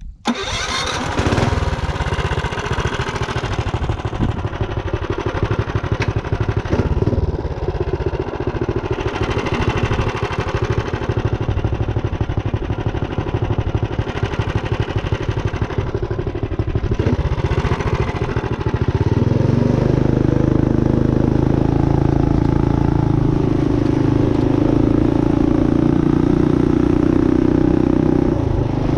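Built Tillotson 212 single-cylinder four-stroke engine on a Megamoto 212 minibike, running as the bike is ridden. It comes in suddenly, varies with the throttle at first, then settles into a steady drone about two-thirds of the way through.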